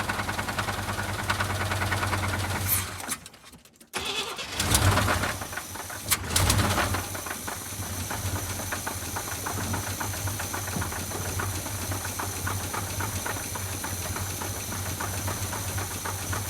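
Damaged car engine running with a steady hum, cutting out about three seconds in, then firing again, revving up twice and settling back to a steady run. It has a rapid knock, which the owner takes for a rod knock in the engine, which had water in it.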